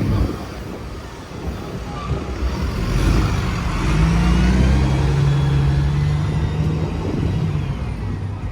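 A bus driving past with its engine running, loudest around the middle and fading towards the end.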